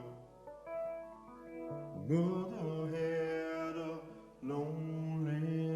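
Live band music: long held notes that slide up in pitch about two seconds in and again near the end, between sung lines.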